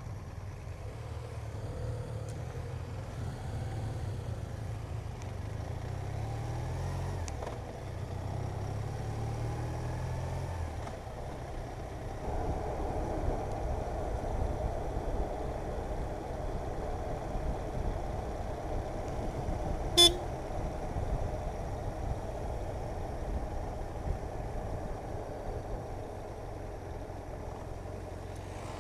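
Motorcycle engine running on the road, its pitch climbing in steps through the gears between about six and eleven seconds in, then a steady rush of wind and road noise at speed. A single sharp, short sound stands out about twenty seconds in.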